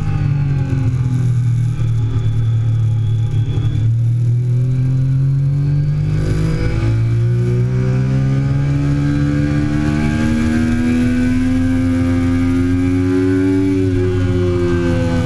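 2008 Triumph Daytona 675's inline three-cylinder engine running hard under way. Its pitch sags about four to six seconds in, then climbs slowly through the second half before dropping sharply near the end.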